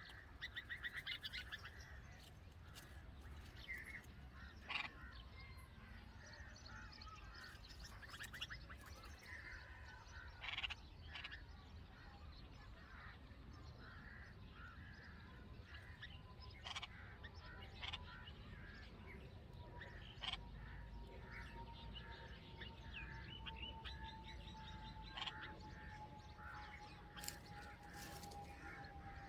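Red-vented bulbuls chirping at the nest: scattered short chirps, with a rapid buzzy trill about a second in and again near the end. A few sharp clicks are mixed in.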